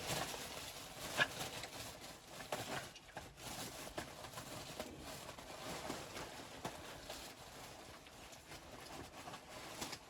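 Footsteps in snow: irregular soft crunches, one sharper one about a second in.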